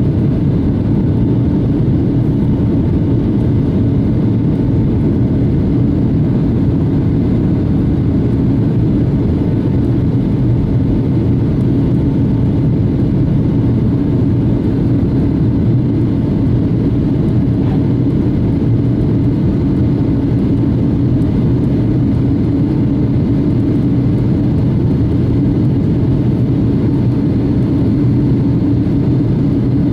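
Steady jet engine and airflow noise inside the cabin of a Boeing 757-200 airliner in flight or on its departure run: a constant low rumble with a faint steady hum over it, unchanging in level.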